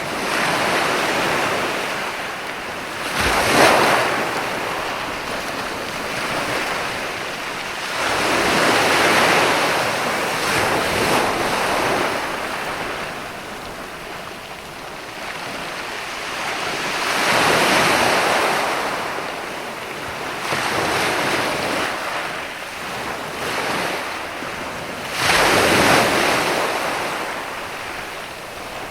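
Sea waves breaking and washing up a sandy beach: a steady hiss of surf that swells with each wave, about every four to eight seconds. The loudest surges come about four seconds in and near the end.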